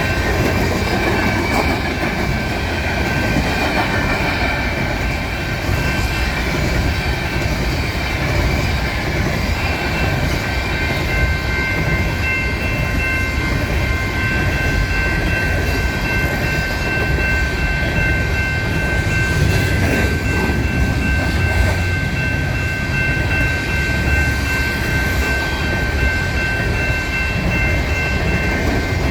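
Coal train's freight cars rolling past with a steady rumble and clickety-clack over rail joints. Several high-pitched wheel-squeal tones are held steady throughout and get louder about a third of the way in.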